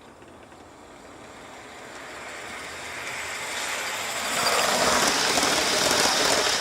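Model train running along its track, growing steadily louder over about four seconds and then holding.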